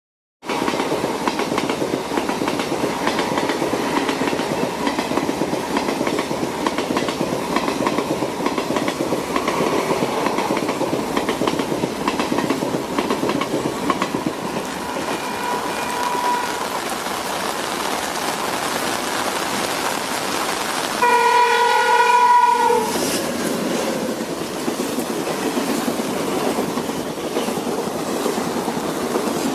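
Train running steadily on the rails, with one blast of its horn lasting about a second and a half near the end.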